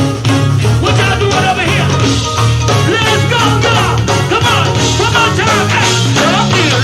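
Live go-go band playing at full volume: a steady bass line under busy percussion, with wavering melodic lines on top.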